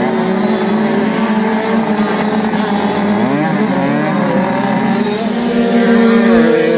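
Several small 50cc motocross bikes running at once, their engines revving up and down in overlapping pitches.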